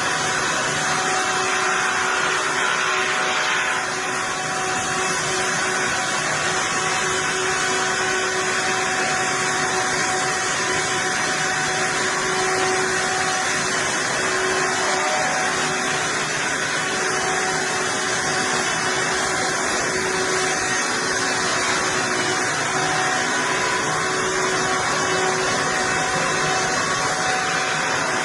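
Heavy wood-processing machinery running steadily: a continuous mechanical drone with a steady hum under it.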